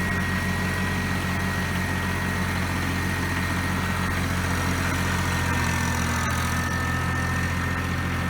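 An engine idling steadily, with a faint high whine over its low hum.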